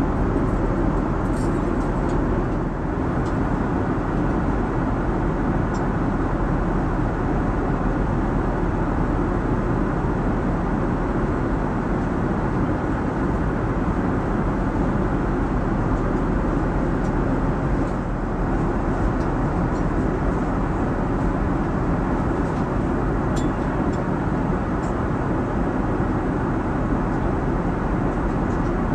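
Steady cabin noise inside a Boeing 787-9: an even rush of engine and airflow noise, unchanging in level, with a few faint ticks.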